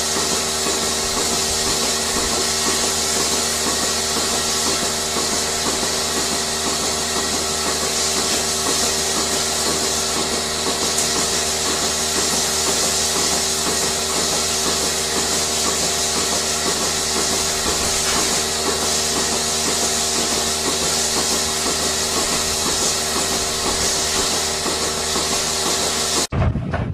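A machine running steadily: a constant hum of several tones with a fast, even pulsing and a high hiss, cutting off abruptly near the end.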